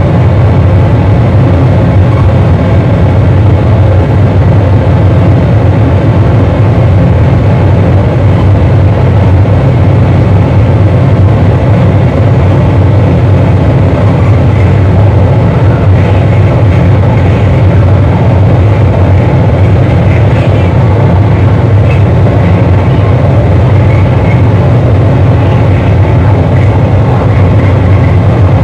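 Live harsh noise performance: a loud, dense wall of distorted electronic noise over a deep, heavy hum, held steady without pauses.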